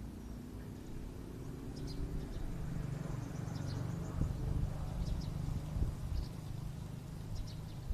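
Small birds chirping faintly and intermittently over an uneven low rumble.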